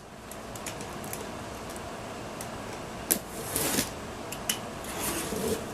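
Cardboard box packaging being handled: scattered light clicks and a short rustle about halfway through.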